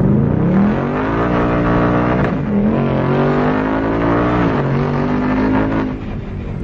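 Ford Mustang Mach 1's 5.0-litre V8 heard from inside the cabin, pulling hard. Its note climbs, breaks off for a moment about two seconds in, climbs again and holds steady, then drops in pitch and quietens near the end.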